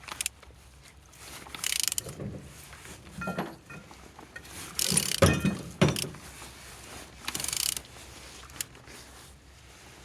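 Mercedes-Benz M271 supercharged four-cylinder engine being turned over by hand with a wrench: irregular bursts of mechanical clicking and scraping as the crank is worked round. The engine turns freely, which the seller calls turning good.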